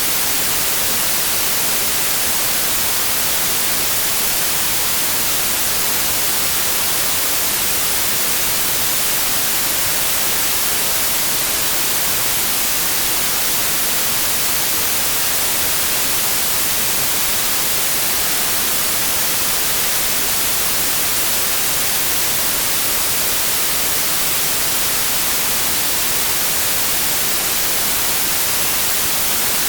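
Synthetic white noise: a steady, even hiss with no change.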